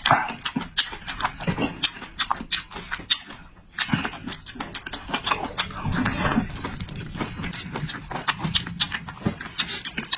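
A person eating close to the microphone: loud, wet chewing, smacking and slurping with many irregular mouth clicks, easing briefly a little under four seconds in.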